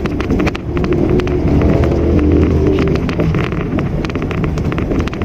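Engine and road noise heard from inside a Mitsubishi Mirage manual hatchback while it is driving: a steady low rumble that swells a little around two to three seconds in, with scattered light clicks.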